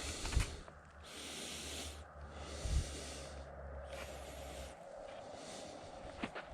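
A snowshoer breathing hard after exertion: slow, regular breaths, about four of them, each a second-long rush of air. A couple of snowshoe steps in the snow thump in the first half second, and a low rumble stops a little after halfway.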